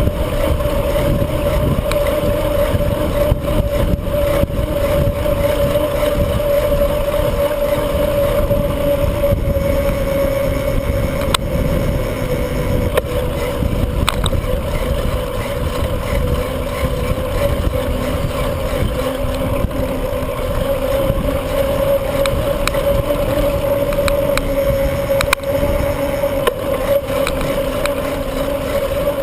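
Wind rushing over the microphone of a camera riding on a moving bicycle: a steady, heavy rumble with a constant hum running through it.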